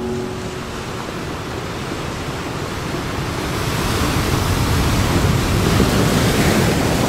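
Ocean surf washing on a sandy beach, a steady rush of water that swells louder from about halfway through as a wave comes in.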